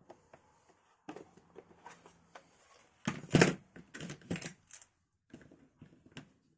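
Irregular clicks, taps and knocks of computer parts being handled during PC assembly, with a louder cluster of knocks about three seconds in.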